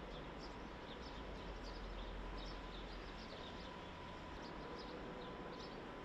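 Small birds chirping, with short, high chirps coming several times a second, over a faint low rumble of traffic.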